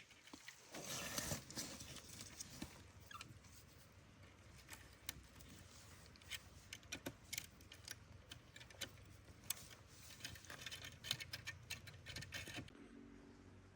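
Faint, scattered light taps and clicks of something being handled, with a short rustle about a second in and a quick run of clicks toward the end. Background music begins near the end.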